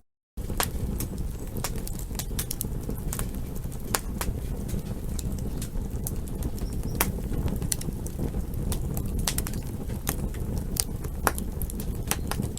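Wood fire crackling: irregular sharp pops and snaps over a steady low rumble of the burning fire. The sound drops out completely for about a third of a second right at the start.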